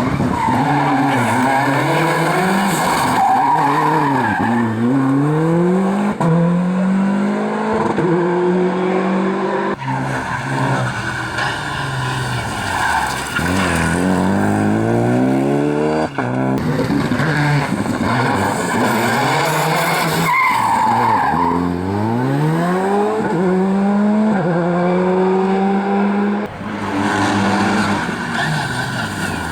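Rally cars driven flat out. The engines rev hard and climb through the gears, the note rising and then dropping at each shift, with tyre squeal. Several passes are cut one after another, with abrupt changes about 6, 10, 16 and 26 seconds in.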